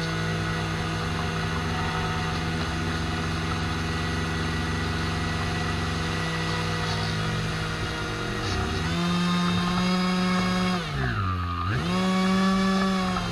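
Small radio-control boat motor running with a steady buzz. It speeds up about nine seconds in, drops sharply for a moment and then picks up again near the end.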